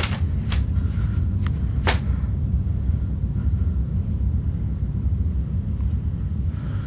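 A steady low rumble with four sharp knocks in the first two seconds, the last two close together.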